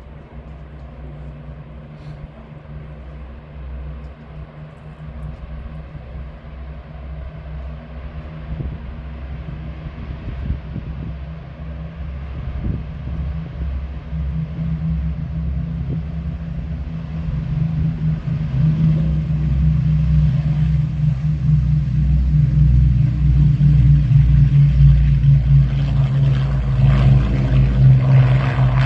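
Avro Lancaster bomber's four Rolls-Royce Merlin piston engines running, a low steady propeller-engine drone that grows steadily louder as the bomber powers up to depart, with a broader rushing noise joining near the end.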